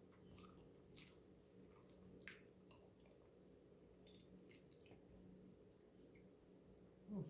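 Faint eating sounds: soft wet smacks and clicks of chewing spicy instant noodles and a boiled egg, scattered at irregular intervals, with a brief louder low sound near the end.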